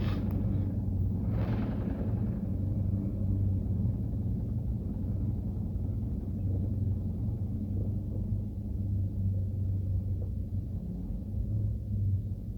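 Heavy truck's diesel engine running steadily at low revs with a deep, even rumble. A brief rush of noise comes about a second and a half in.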